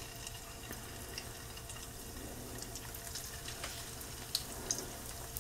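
Marinated chicken pieces frying faintly in hot oil in a cast-iron skillet as they are spooned in, with scattered small pops and ticks over a faint steady hum.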